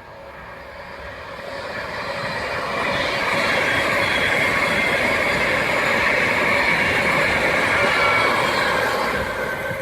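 Train passing on the main line: wheel and track noise swells over about three seconds, holds steady and loud, then falls away near the end.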